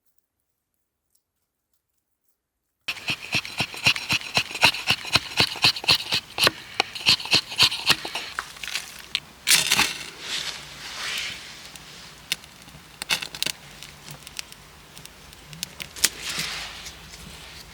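Silence for about the first three seconds, then a fast run of rhythmic scraping strokes, about two to three a second, giving way after about eight seconds to irregular scraping and rustling from hands-on work.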